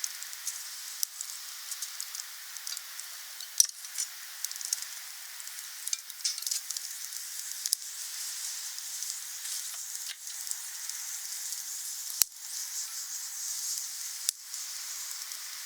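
Wood bonfire burning: a steady hiss with frequent irregular sharp crackles and pops, one louder pop about three and a half seconds in.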